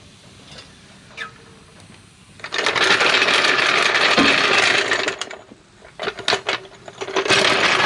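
DeWalt 20-volt cordless 1/2-inch drive impact wrench hammering on wheel lug nuts to check their tightness: one long run of about three seconds, a few short bursts, then another run near the end.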